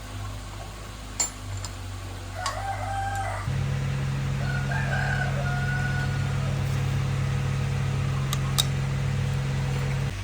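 A rooster crowing twice, about two seconds apart. A steady low machine hum starts abruptly a third of the way in and cuts off near the end. A few sharp clicks are heard over it.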